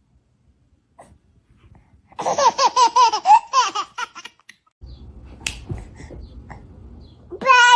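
A baby laughing in a quick run of short bursts for about two seconds, starting about two seconds in. A low rumble follows, and a child's high voice comes in near the end.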